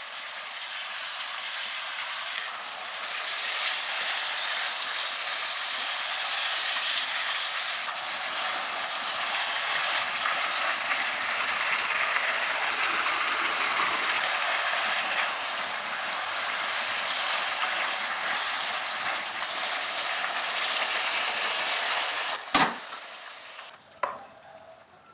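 Sliced onion and beef sizzling in a hot pan as they are stir-fried and turned with a spatula, a steady frying hiss. Two sharp knocks come near the end, and then the sizzle dies down.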